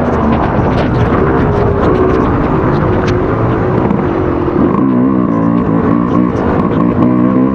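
Dirt bike engine being ridden, its pitch rising and falling repeatedly through throttle changes, with scattered short clicks and knocks.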